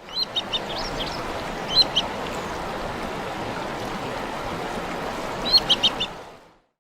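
Ibisbill calling: short high piping notes in quick groups, a few at the start, a pair about two seconds in and a run of about five near the end, over a steady rushing noise.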